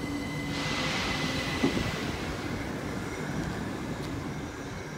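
A Southern passenger multiple-unit train pulling away along the platform: a steady rumble of wheels on the rails with a thin, steady high whine, one sharp knock about a second and a half in, growing fainter towards the end as it moves off.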